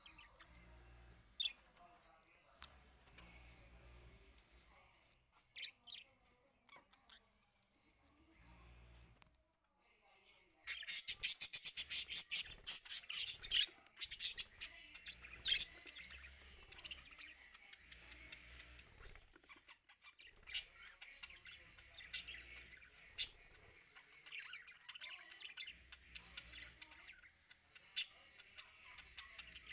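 Small cage birds chirping, with sparse single chirps at first. About a third of the way in the birds break into dense, rapid chattering that keeps going.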